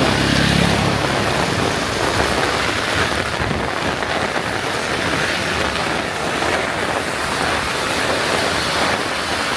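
Heavy rain falling steadily, a dense even hiss. A low hum fades out within the first second.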